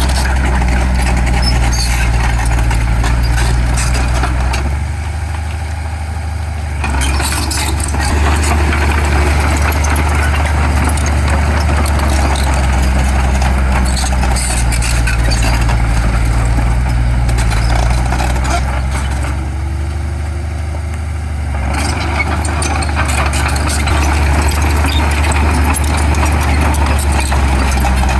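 Heavy diesel engine of earthmoving machinery running under load, with a rattling clatter above the engine note. The clatter drops back twice, for a couple of seconds each time, as the engine eases off.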